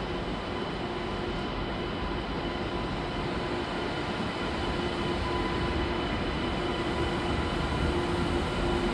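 Double-deck TGV high-speed train moving through an underground station: a steady rumble with a steady whine, gradually getting louder.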